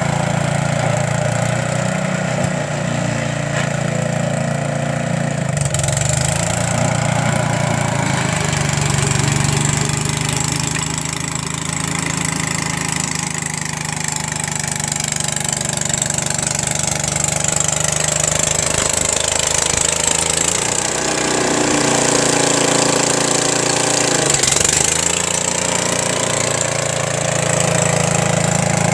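Rapid S Super two-wheel tractor's engine running steadily while driving its snowblower, the engine note sagging and picking back up a few times as the load changes. A thin high whine joins in about five seconds in.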